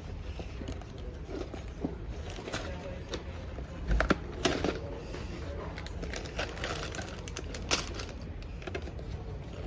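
Public indoor ambience: a steady low hum with faint voices, scattered small clicks and crinkles of handling, and a dull thump about four seconds in.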